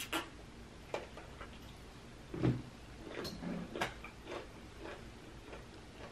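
Close-miked chewing of raw cucumber: crisp crunches and wet mouth clicks every second or so. A louder, low mouth sound comes about two and a half seconds in.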